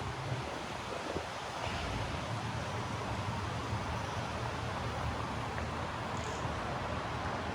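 Steady city street traffic ambience: a low, constant engine rumble under an even wash of street noise.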